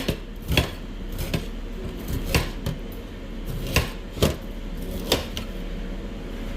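Kitchen utensils and dishes being handled: about nine irregular sharp clicks and knocks over a low steady hum.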